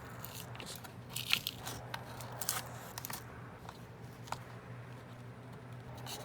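Small, irregular clicks and crackles of a precision screwdriver and tools working the tiny screws and parts of a MacBook Pro's underside, over a faint steady hum.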